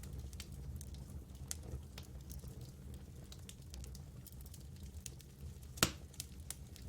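Campfire burning, with scattered crackles and one louder pop near the end, over a low steady rumble.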